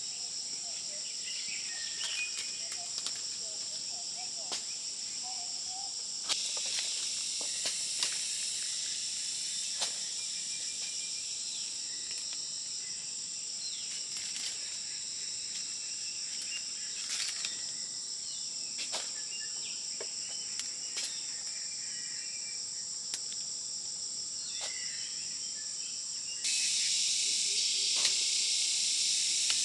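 Steady high-pitched insect chorus in forest, with scattered sharp clicks and a few faint bird chirps; the chorus jumps louder near the end.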